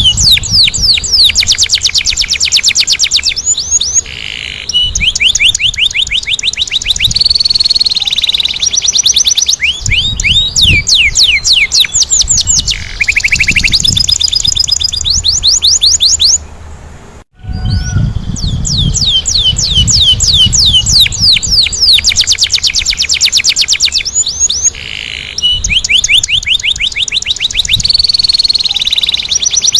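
Domestic canary singing loudly in fast rolling trills: runs of rapidly repeated falling notes, changing from one trill type to the next with short pauses. The song breaks off briefly a little past halfway, then picks up again.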